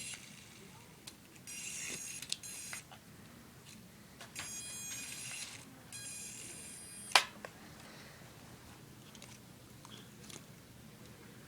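A small toy helicopter's electric motor whirring in three short bursts, with a single sharp knock about seven seconds in.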